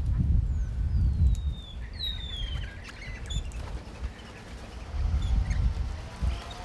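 Wild birds calling with thin, downward-sliding whistles and short chirps, the strongest about two seconds in, over a loud, uneven low rumble.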